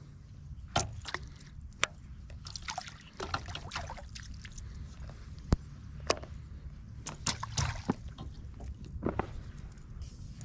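River water sloshing and lapping, with scattered sharp clicks and knocks over a steady low rumble.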